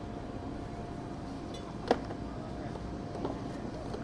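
Steady low mechanical hum with a constant faint tone over it, broken by a sharp click about two seconds in and a softer one a little later.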